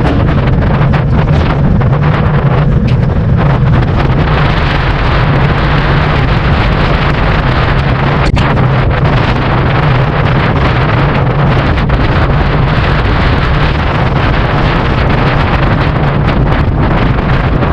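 Wind buffeting a GoPro action camera's microphone while cycling: a loud, steady rush with a low rumble.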